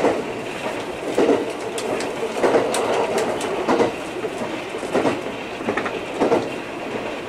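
Electric train running along the track, heard from inside the car: wheels knocking over rail joints in a clickety-clack roughly once a second over a steady running rumble.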